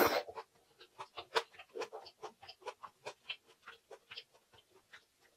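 Close-miked chewing of a mouthful of anchovy and egg fried rice: a louder bite off the spoon at the start, then soft wet mouth clicks at about four a second.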